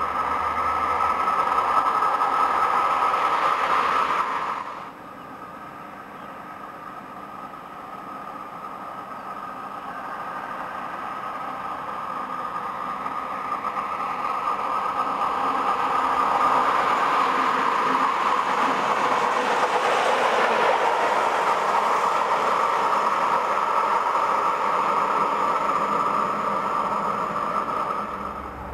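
Red electric locomotives passing on an electrified main line. A locomotive hauling passenger coaches rolls past loudly and cuts off abruptly about five seconds in. Then a second electric locomotive approaches, its rolling and running noise building gradually to a long loud pass before falling away near the end.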